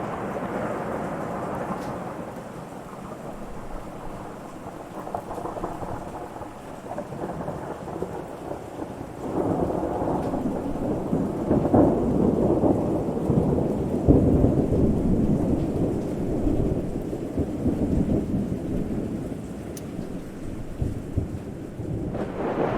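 Rolling thunder over steady rain: a long rumble swells about nine seconds in, stays loud for several seconds and eases off near the end.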